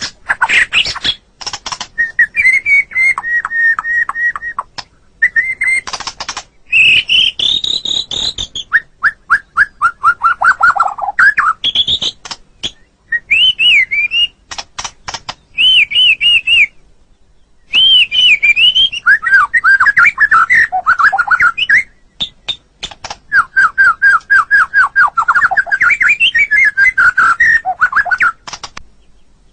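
White-rumped shama (murai batu) singing: loud, varied phrases of quick repeated whistled notes and sliding whistles, mixed with harsh rattling clicks, with short pauses between phrases.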